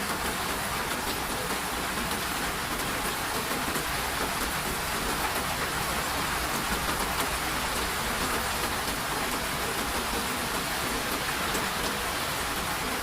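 Steady rain falling: an even hiss of water, with faint scattered drop ticks.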